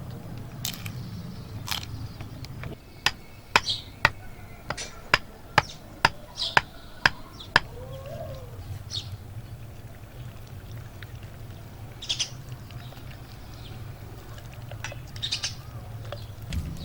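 Birds chirping now and then, with a run of about ten sharp knocks, roughly two a second, starting about three seconds in, over a low steady hum.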